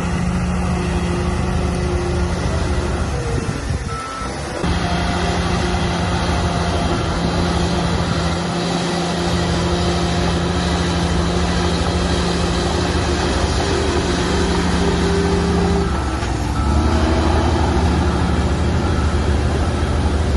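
Diesel engine of a Shantui crawler bulldozer running steadily under work. Its note dips briefly about four seconds in and drops to a deeper, slightly louder tone near the end.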